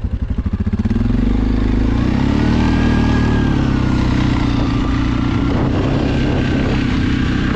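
Suzuki KingQuad ATV's single-cylinder engine running under way, a low, pulsing beat at first that rises to higher, steady revs about two seconds in as the quad accelerates.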